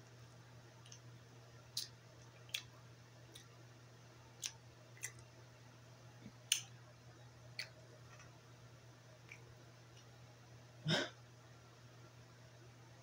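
Close-up mouth sounds of someone chewing sushi: about a dozen sharp, wet clicks and smacks of the lips and tongue at irregular intervals, with one louder, longer mouth noise near the end.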